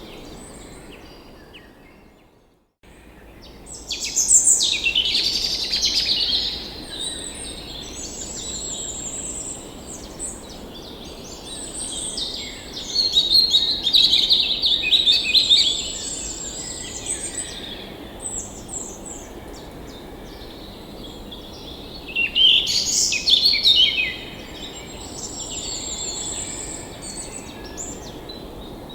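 Songbirds chirping and trilling in bursts over a steady outdoor hiss. The whole track fades out to silence for a moment about two to three seconds in, then comes back.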